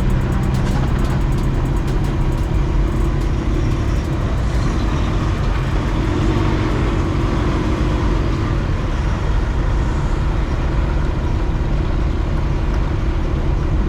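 Semi truck running steadily: a low engine drone under a constant rushing of road and wind noise.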